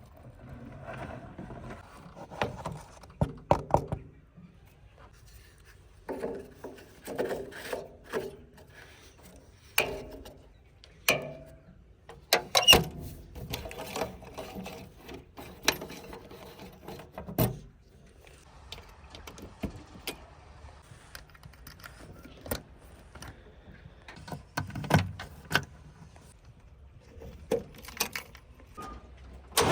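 Scattered clicks, knocks and clanks of objects being handled, in irregular clusters with quiet gaps between them.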